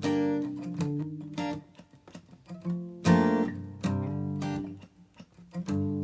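Background music: acoustic guitar strummed in short chords, several a few seconds apart.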